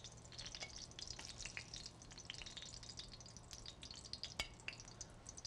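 Eggplant slices frying in olive oil in a stainless sauté pan: a faint, steady sizzle full of fine crackles, with one sharp click about four seconds in.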